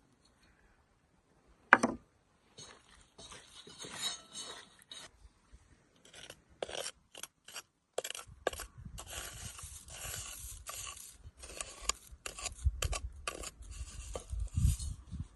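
Hand scraping and rubbing during food preparation. A sharp click comes about two seconds in, then irregular scraping with many short clicks, growing rougher and denser in the second half.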